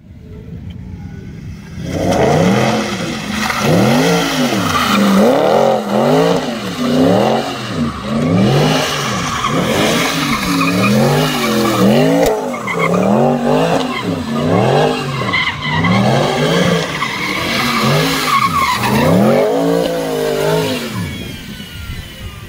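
Mercedes-Benz SLS AMG's 6.2-litre V8 revved hard over and over, its pitch climbing and dropping about once a second. The revving starts about two seconds in and stops just before the end.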